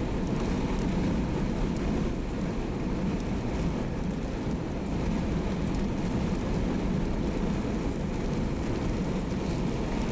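Steady road and engine noise inside a moving car, a dense low rumble that holds at an even level.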